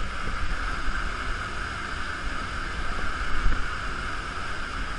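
Waterfall pouring close by: a steady roar of rushing water, with an unsteady low rumble on the microphone.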